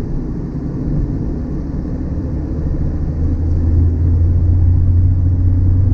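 Mazda MX-5 NC's 2.0-litre DOHC four-cylinder engine running steadily under way, mixed with road noise; its low drone grows louder about halfway through.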